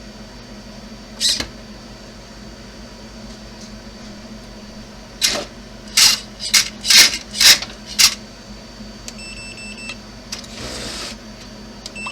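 Sharp clicks from handling and pressing buttons on a radio-control transmitter: one about a second in, then a quick run of six between about five and eight seconds. Near the end come a few faint short electronic beeps and a brief soft whir.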